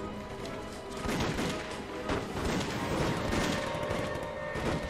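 Battle gunfire: many rifles and machine guns firing in a dense, continuous fusillade, with a dramatic music score held underneath.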